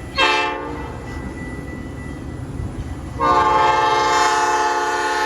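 Locomotive air horn sounding a short blast, then a long steady blast beginning about three seconds in, over the low rumble of the train.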